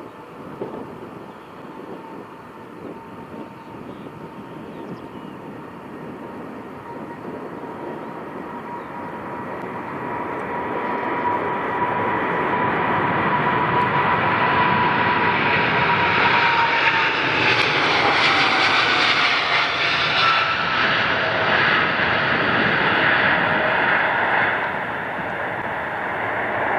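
Jet airliner engines passing close by, the noise building to a peak and then easing. Their whine holds one pitch and then drops as the aircraft goes past.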